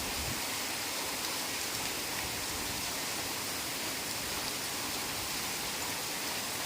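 Steady heavy rain falling in a forest: an even hiss with faint scattered drop ticks.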